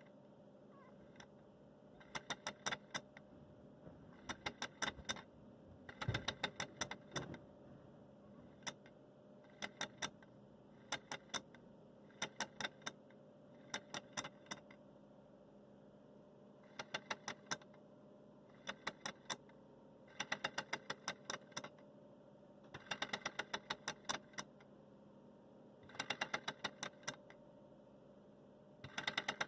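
Repeated short bursts of rapid mechanical clicking, about ten sharp clicks a second lasting around a second each, recurring every couple of seconds over a faint steady hum.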